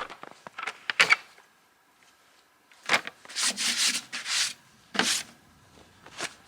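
Fabric rustling and rubbing as a person changes into jeans, coming in uneven bursts with a lull of about a second and a half after the first second.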